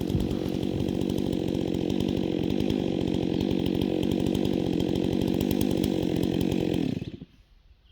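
Chainsaw engine running at a steady speed, then shut off about seven seconds in.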